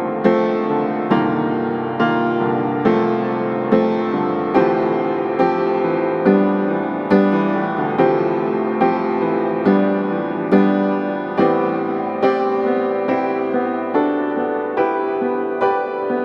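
Slow background piano music, with notes or chords struck at an even pace, a little more than one a second, and held.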